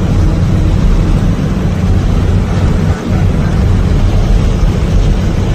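Steady low rumble of a bus travelling through a long road tunnel, its engine and tyre noise filling the tunnel.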